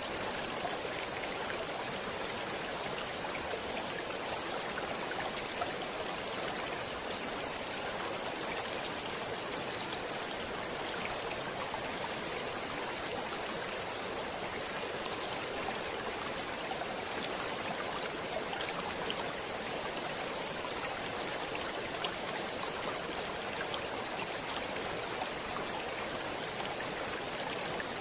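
A stream running steadily: an even, unbroken hiss of flowing water with little low rumble and faint small splashes scattered through it.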